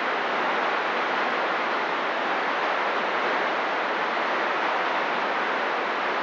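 CB radio receiver hiss with the squelch open: a steady, even rush of static with no voices coming through.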